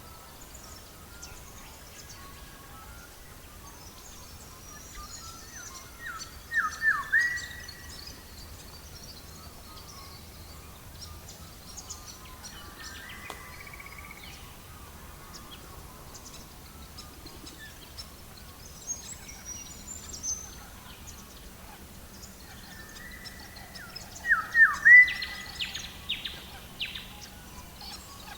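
Wild birds singing: a quick phrase of descending whistled notes comes twice, about six seconds in and again near the end. Scattered short high chirps sound between them, over a faint steady background hiss.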